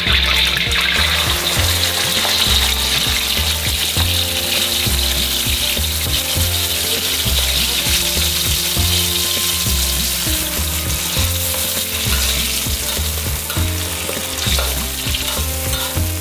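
Blended chili spice paste frying in hot oil in a wok over a gas flame, with a loud, steady sizzle. A ladle stirs the paste near the end.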